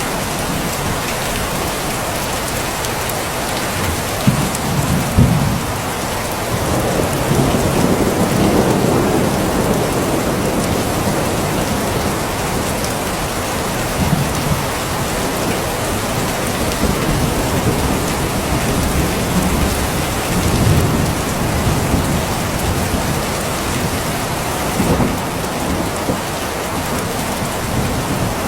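Steady heavy rain with thunder rumbling low several times.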